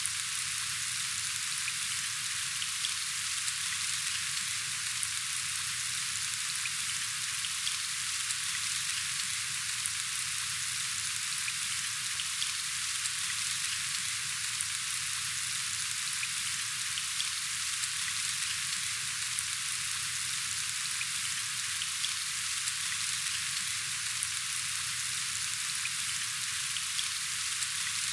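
Steady rain falling: a dense, even hiss with scattered faint drop ticks.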